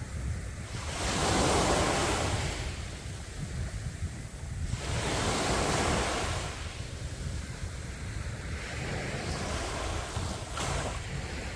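Sea waves breaking and washing up a beach, three surges of surf about four seconds apart. Wind rumbles on the microphone underneath.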